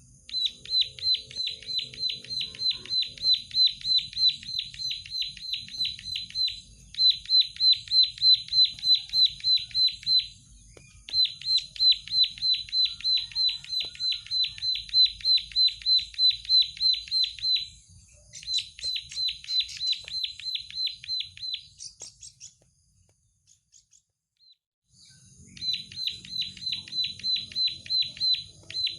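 Prenjak sawah (plain prinia) singing: fast strings of sharp, identical high notes, about five a second, in bouts of several seconds separated by short pauses, with a longer break about three-quarters of the way through.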